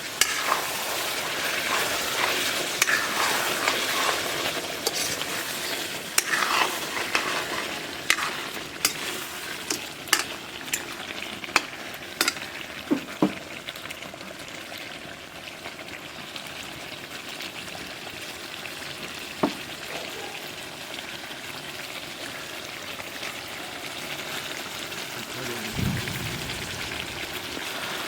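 Curry frying in hot oil in a pan, sizzling steadily, while a spatula stirs it and knocks sharply against the pan a number of times, mostly in the first half.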